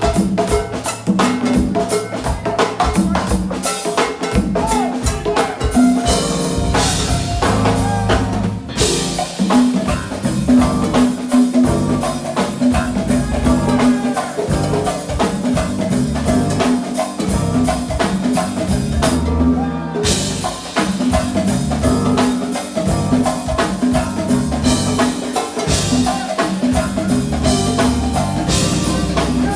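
A live band playing a groove, led by a drum kit with kick, snare and cymbals over a bass line. The cymbals drop out briefly twice, about nine seconds in and again near twenty seconds.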